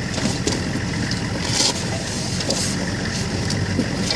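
Gun truck engine running at idle, a steady rumble with no gunfire, with two brief hissing noises about one and a half and two and a half seconds in.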